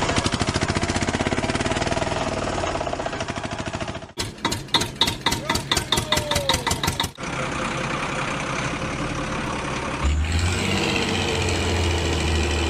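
Vehicle engine sound effects in several abruptly cut segments: a fast pulsing run, then a slower chugging of about five knocks a second from about four seconds in, then a steadier run, and a deeper engine sound near the end.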